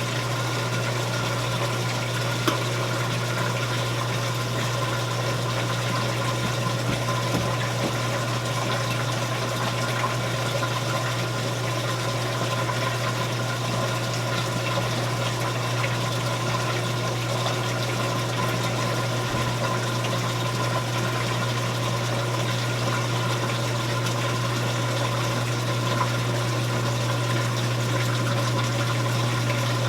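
Admiral belt-drive top-load washing machine in neutral drain: the motor runs with the tub not spinning while the drain pump empties the wash water. It gives a steady, even hum with water rushing through the pump.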